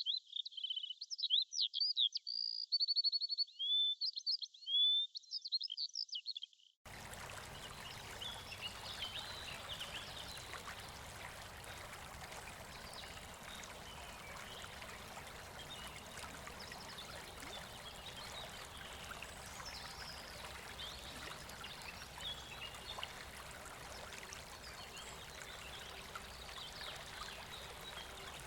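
Birds singing a quick run of chirping, gliding calls for the first several seconds. It then gives way abruptly to a steady rush of running water, with faint bird chirps over it.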